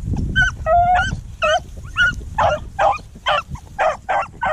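Rabbit-hunting beagles baying on a hot trail: a quick string of short, high yelping barks, two to three a second, as the pack runs the rabbit.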